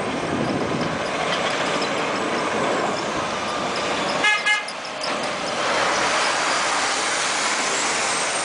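Steady road-traffic noise with a single short vehicle horn honk about four seconds in.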